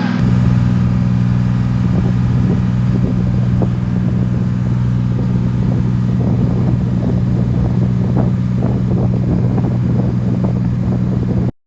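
Tour boat's engine running at a steady speed, a loud low hum with a rushing noise over it. The sound cuts out abruptly for a split second near the end.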